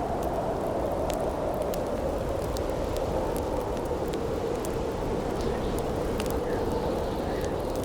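Howling wind, a steady rushing noise that wavers slowly in pitch, with sparse sharp crackles from a wood campfire on top.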